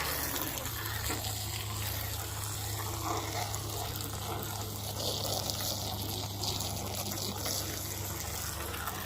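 Water running steadily, rinsing soap and paint remover off stripped door seal plates.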